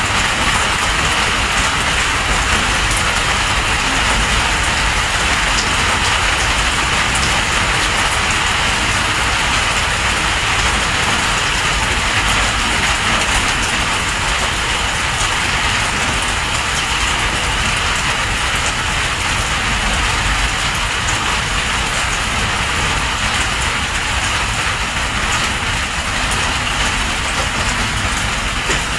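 Heavy rain pouring steadily in a storm, with a low rumble underneath.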